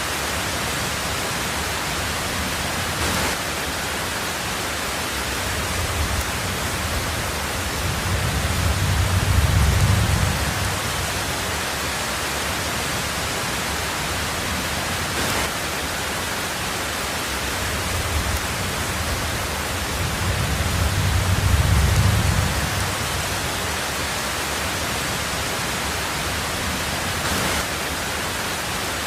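Steady heavy rain on a tin roof, an even hiss, with a low rumble of thunder swelling and fading twice, about twelve seconds apart.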